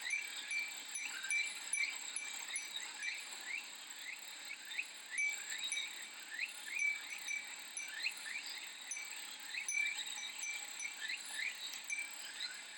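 Cicadas singing: a steady high buzz with short rising chirps repeating many times a second. A Japanese furin wind chime tinkles on and off over it.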